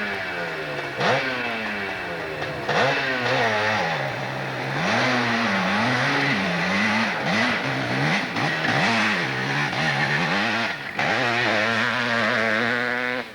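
Hill-climb motorcycle engine revving hard, its pitch repeatedly rising and falling as the throttle is opened and closed. The swings come in quick succession in the middle and settle to a steadier note near the end.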